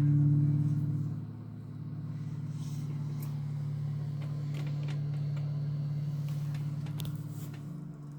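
Telecaster-style electric guitar: a chord struck once and left to ring, sustaining for about eight seconds and fading near the end.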